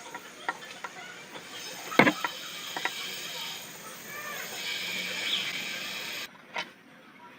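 Metal scissors and tools handled on a workbench: a few sharp clicks and knocks, the loudest about two seconds in, then a steady hiss for about three seconds that cuts off suddenly, and one last click.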